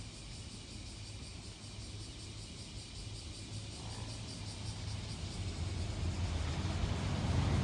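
Tokaido Shinkansen bullet train approaching at a distance, a rushing rail noise that grows steadily louder over the last few seconds, over a steady low hum.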